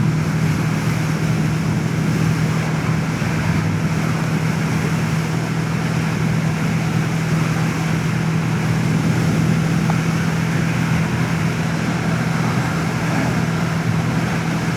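Motorcycle engine running at a steady cruising speed, a constant low drone, with wind rushing over the helmet microphone.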